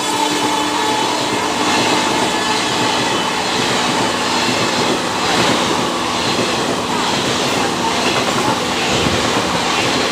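Train running past at speed, with a steady loud rush and dense clatter of its coaches' wheels on the rails. The tail of its horn dies away in the first half-second.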